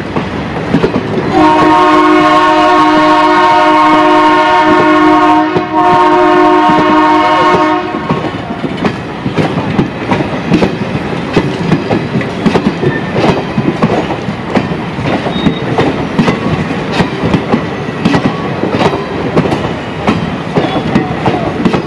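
Horn of an ALCo diesel locomotive sounding two long blasts, the second shorter, followed by the steady clatter of train wheels passing over rail joints.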